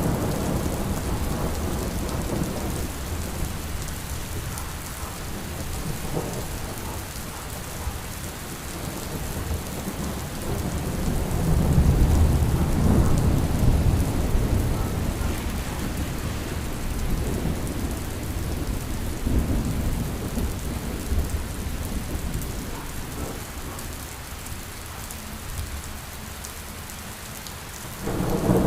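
Steady rain with thunder: a low rumble swells about halfway through, and another breaks in near the end.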